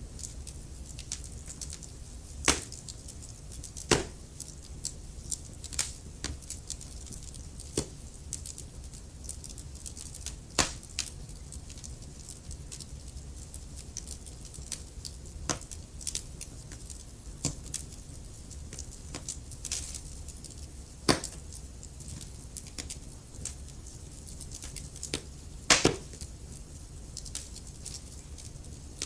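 Burning wood logs in a fireplace crackling: frequent small snaps and pops over a low steady rumble. A few much louder pops come through, two in the first four seconds and two more in the second half.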